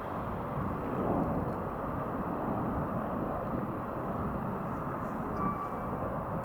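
The 1967 Lincoln Continental's V8 running, a steady low rumble mixed with road and wind noise.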